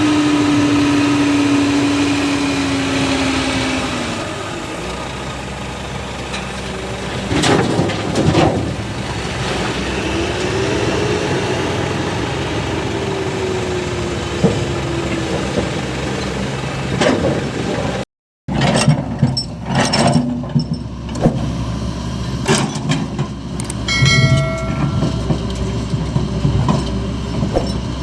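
Heavy diesel earthmoving machinery running steadily, with a whine that rises and falls, and a few loud knocks about a quarter of the way in and again later. The sound cuts out completely for a moment about two-thirds through.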